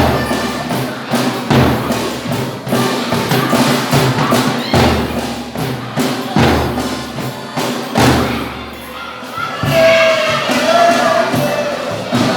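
Folia de Reis folk music: a drum struck in a steady beat about every second and a half under the other instruments, with a voice singing over the last couple of seconds.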